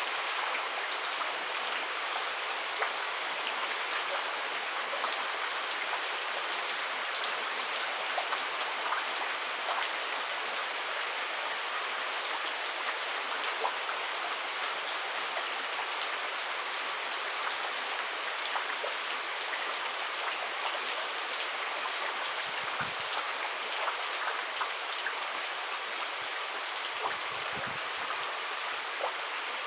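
Heavy rain falling steadily: a dense, even hiss of rain with many small individual drop ticks.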